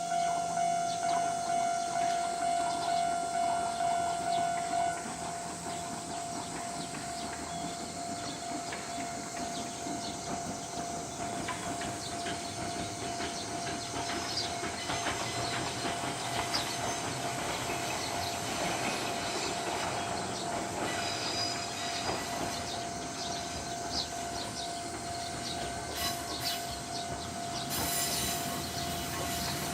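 Ichibata Electric Railway 2100 series electric train (ex-Keio 5000 series) running along the line, its rumble building from about six seconds in, with clicks of the wheels over rail joints. A pulsing tone, about two pulses a second, is loud at first and drops away about five seconds in, carrying on faintly.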